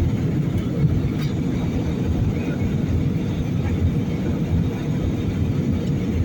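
Steady low rumble inside an airliner's cabin: engine and airflow noise, with a faint click about a second in.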